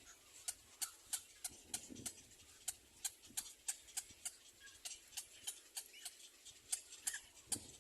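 A steady run of sharp, short ticks or clicks, about three a second.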